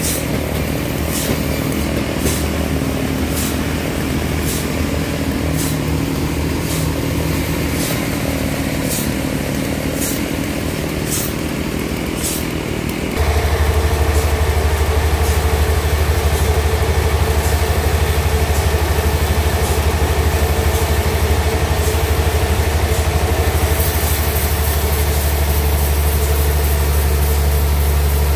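The engine of a homemade sawmill runs steadily, with faint ticks about once a second. About halfway through, the sound changes suddenly to a louder, deeper, even hum.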